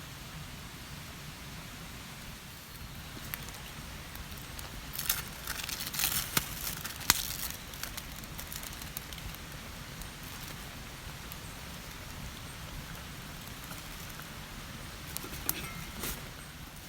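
Steady rushing of a mountain stream, with a cluster of sharp clicks and rustles about five to seven seconds in and a few more near the end.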